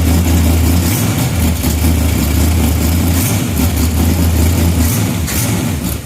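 Chevy 350 small-block V8, bored .030 over and mounted on an engine stand with its valve covers off, running at idle, loud and slightly uneven, with an exhaust leak.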